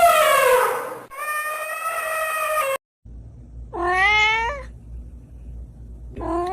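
Domestic cat meowing: two short meows about two and a half seconds apart, each rising then dipping at the end, over a low background hum. These follow two long drawn-out pitched calls in the first three seconds, the first falling in pitch.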